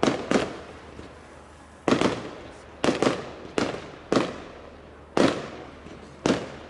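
Fireworks bursting overhead: a rapid, irregular series of about nine sharp bangs, each trailing off in a short echo.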